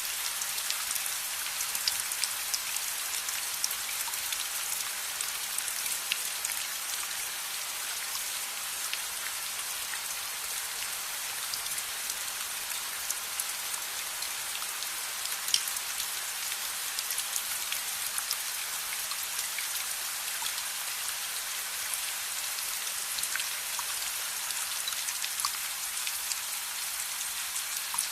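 Steady rain with a dense hiss, dotted with scattered sharp ticks of individual drops.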